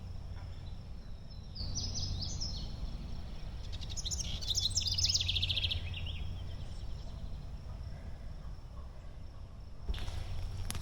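A songbird singing in woodland: a short burst of high chirps, then a longer rapid trill of high notes a couple of seconds later, over a steady low background rumble. Footsteps on the trail start near the end.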